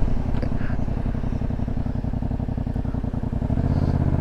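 Motorcycle engine running with a rapid, even pulse, getting louder and fuller about three and a half seconds in.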